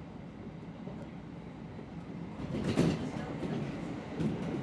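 Kintetsu Ikoma Line electric train running on the track, heard from inside the cab: a steady rumble of wheels on rail, with a louder rattle about three seconds in and again near the end.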